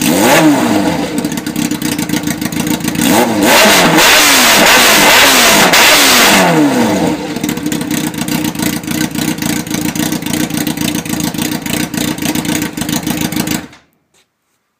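2003 Yamaha YZF-R6's inline-four engine running with no exhaust fitted. It is revved in quick blips, held at high revs for a couple of seconds, then settles back to a steadier, lower running sound before cutting off abruptly near the end.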